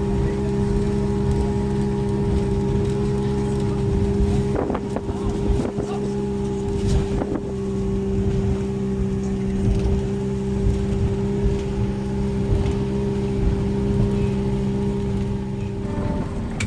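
Ferry's diesel engines droning steadily with a constant low hum and rumble. A few short knocks come in the middle.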